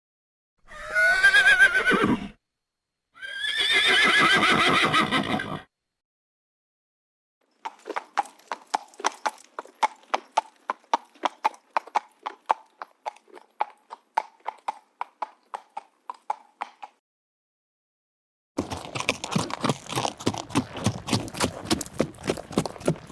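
Horse sounds. First two whinnies, each one or two seconds long with a pitch that bends up and down. Then, after a pause, hooves clip-clopping at a steady walk, about four hoofbeats a second for some nine seconds. After another pause, faster and denser hoofbeats start near the end.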